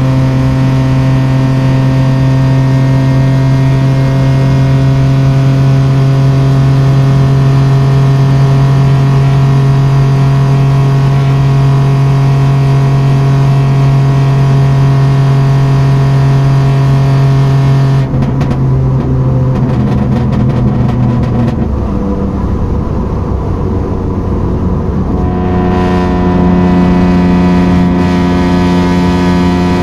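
Toyota Aygo's 1.0-litre three-cylinder 1KR engine running at steady revs. About eighteen seconds in the note drops and wavers, then a few seconds later it holds steady again at a different pitch. The owner believes this engine is failing, suspecting at least a head gasket.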